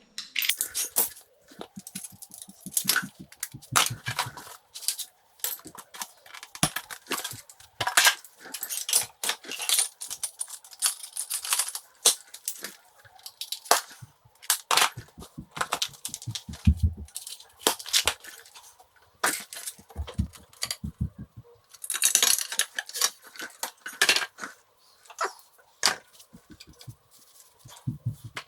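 Hand tools and loose metal parts clinking and clattering while a motorcycle engine is being dismantled: a busy, irregular run of sharp metallic clicks and knocks, with a few duller thumps.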